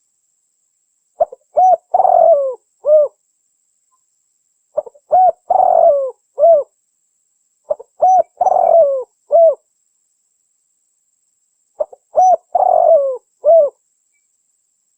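Spotted dove (tekukur) cooing: four phrases, each a few short coos around a longer rolling coo, repeated every three to four seconds with silence in between.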